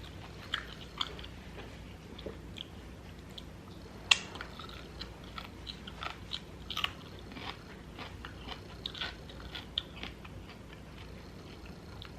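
A person chewing and biting food close to the microphone: irregular crisp crunches and wet mouth clicks, with one sharper, louder crunch about four seconds in.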